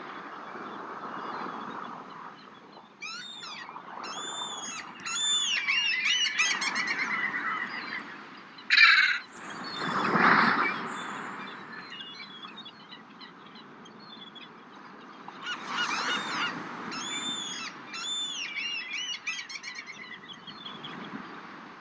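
Ocean waves washing in as a steady rushing bed of surf, with a bigger wave surging about ten seconds in. Over it, birds call in two bouts of rapidly repeated high cries, and a brief loud burst stands out just before the big wave.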